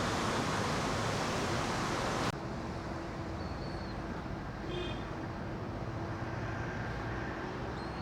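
Outdoor ambient noise, a steady rush like passing traffic, that drops suddenly about two seconds in to quieter background noise with a few short high chirps.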